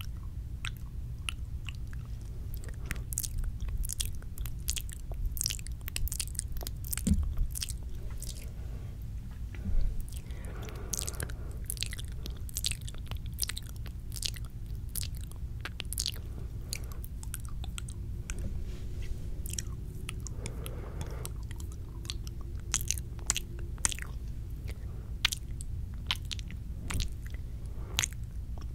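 Close-miked ASMR mouth sounds: a rapid, irregular run of wet clicks and smacks, over a steady low hum. Twice a brief, softer rushing sound joins in.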